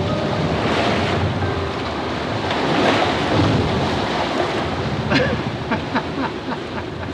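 Strong wind and rushing sea aboard a small yacht sailing fast in a Force 6 blow: water surging past the hull and gusts buffeting the microphone. A run of short sharp taps comes about five seconds in.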